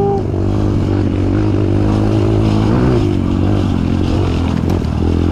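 Kawasaki KLX trail motorcycle's single-cylinder four-stroke engine running steadily under way, its pitch wavering slightly with the throttle.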